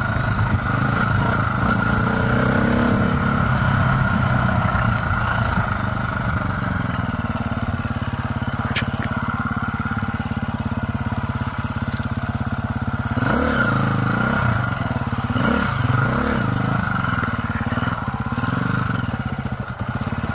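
Dirt bike engine running at a steady low speed, then revving up and down over and over through the last third.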